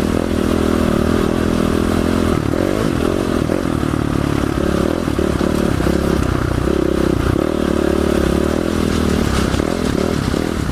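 Dual-sport motorcycle engine running under way over rough ground, its pitch rising and falling with the throttle.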